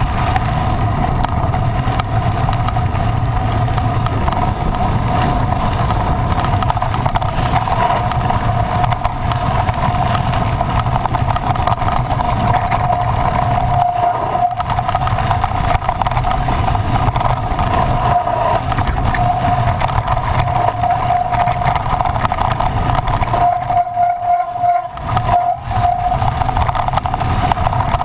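Vehicle engine running steadily under way, a constant low rumble with a steady high whine over it. The sound dips briefly about three-quarters of the way through.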